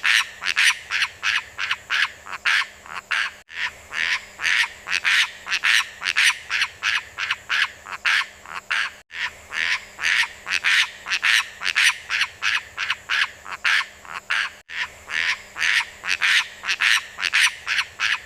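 Beo lumut bird calling in short, harsh, croak-like notes repeated about three times a second. The calls run in a loop, with a brief gap about every five and a half seconds.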